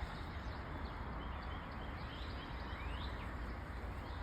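Small birds chirping, with short quick rising chirps scattered throughout, over a steady low rumble.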